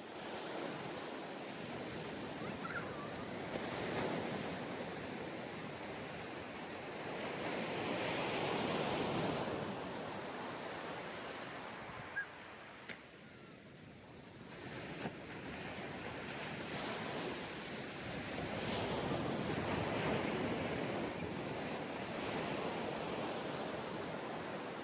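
Ocean waves breaking and washing up on a sandy beach, the surf swelling and easing in slow surges about ten seconds apart, with a little wind on the microphone.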